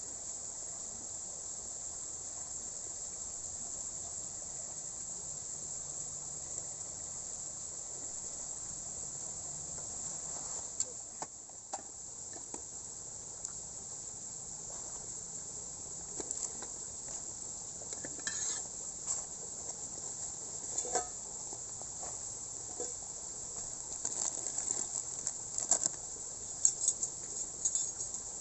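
Steady high-pitched chorus of crickets. From about ten seconds in come scattered sharp clicks and knocks, which grow busier near the end.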